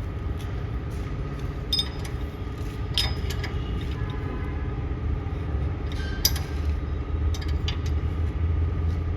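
Workshop sounds: sharp metallic clinks of tools and metal parts at intervals, over a steady low rumble of a running engine.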